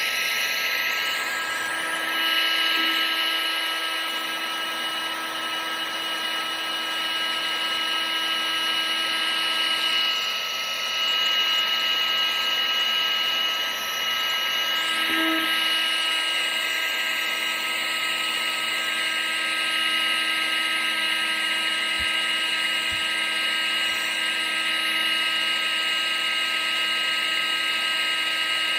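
Vacuum cleaner motor running steadily: a constant rush of air with a high, even whine.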